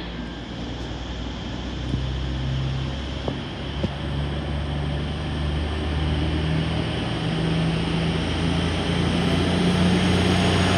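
Diesel train engine running, its low note stepping up in pitch several times as it grows louder, with a few brief clanks about two to four seconds in.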